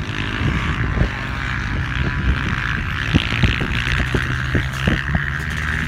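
Dirt bike engines running hard in an ice race, a steady high drone with short thumps scattered through it.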